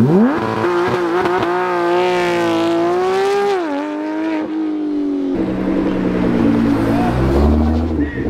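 Porsche 911 GT3's naturally aspirated flat-six revving hard as the car accelerates away: a high wail that climbs steeply, holds, drops at a gear change about three and a half seconds in, then fades. From about five seconds in, a Nissan GT-R's twin-turbo V6 takes over with a lower, rumbling engine note as it rolls up.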